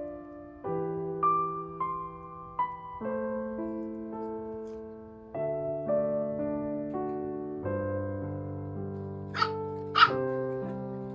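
Gentle piano music, with two short yaps from a Pomeranian a little more than half a second apart near the end, the second louder.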